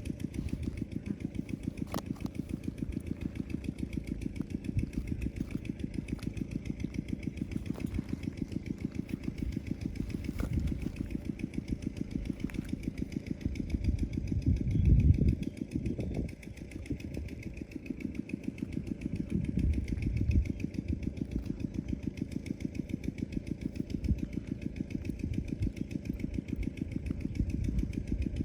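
A motor running steadily with a rapid, even pulsing throughout, swelling briefly to a louder rumble about halfway through.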